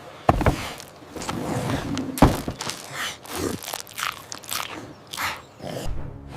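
A run of short crunching noises, with sharp knocks about a quarter second and about two seconds in.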